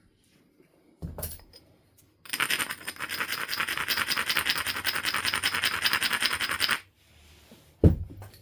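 A coarse abrading stone scraped in rapid back-and-forth strokes along the edge of a flint biface for about four and a half seconds, grinding the edge to prepare striking platforms. A short knock comes about a second in, and a single sharp knock, the loudest sound, near the end.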